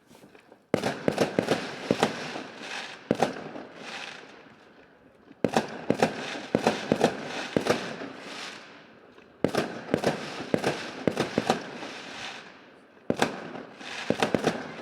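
New Year's fireworks going off in four volleys of rapid crackling bangs, one about every four seconds, each dying away before the next begins.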